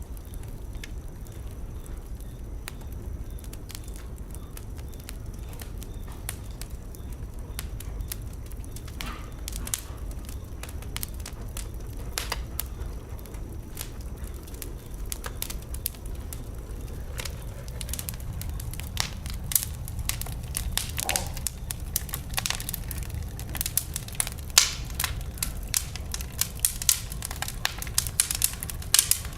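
Wood fire burning in a fireplace: a steady low rumble of flame under sharp crackles and pops, which come thicker and louder toward the end.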